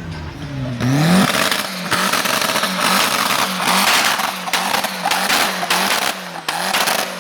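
Car engine revving hard, its pitch climbing and falling again and again, under a loud rush of tyre noise, as in a drift run.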